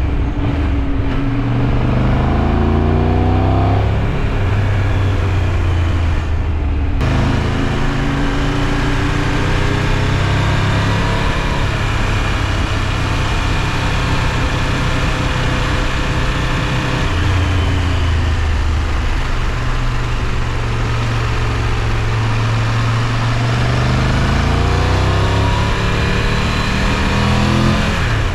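Triumph Tiger 1200 Rally Pro's three-cylinder engine under way, its pitch rising and falling several times as the rider accelerates and eases off through the bends, over a steady rush of wind that turns louder and brighter about seven seconds in.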